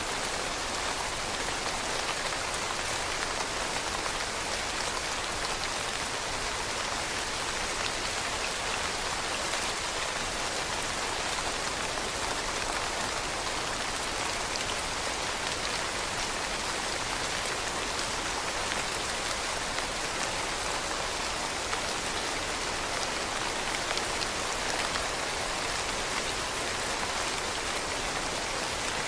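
Steady rain falling on leaves: a dense, even hiss of many small drop patters with no break.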